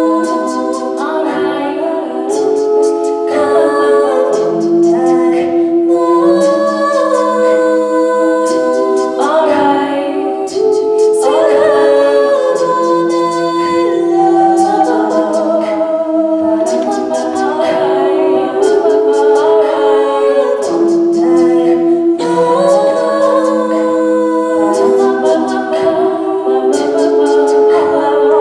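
A cappella vocal group singing layered, held chords that change every second or two, with no instruments. Sharp percussive clicks keep a steady beat throughout, typical of vocal percussion.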